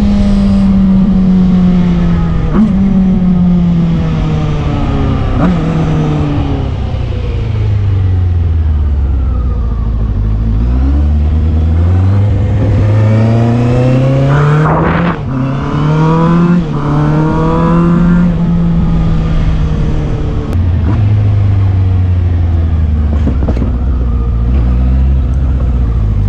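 Benda LFC 700's 680cc four-cylinder engine running through its stock exhaust while riding. The engine note falls steadily as the bike slows through downshifts, then rises again under acceleration with two quick gear changes around fifteen seconds in, and settles to a steadier, lower note near the end.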